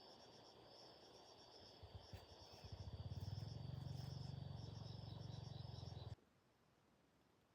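Crickets chirring steadily. A low hum comes in about two and a half seconds in, and all of it cuts off abruptly about six seconds in.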